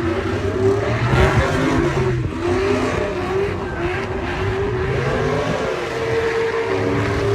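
Truck engines revving, their pitch rising and falling, with more than one engine running at once over a heavy rumble.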